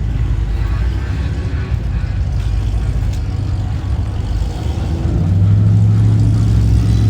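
A car engine running close by: a low rumble, joined about five seconds in by a steady, louder low hum.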